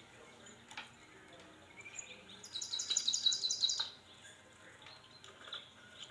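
A songbird singing a rapid trill of repeated high notes for about a second and a half, starting a couple of seconds in, among a few fainter chirps.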